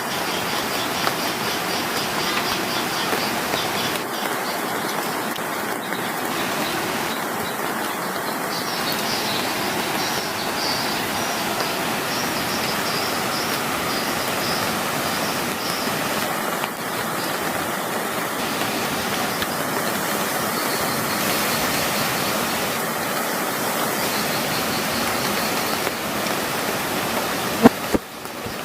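Steady rushing water noise of heavy rain and the bono tidal bore, with a faint high chirping that comes and goes. A sharp click sounds near the end.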